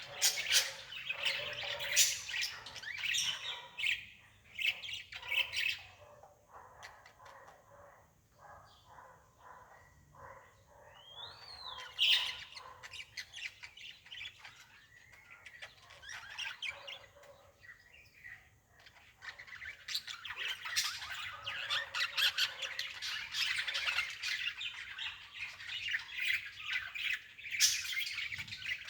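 Birds chirping and squawking in many short, high calls. The calls are busy at first, thin out through the middle with one rising-then-falling call about twelve seconds in, and crowd together again near the end.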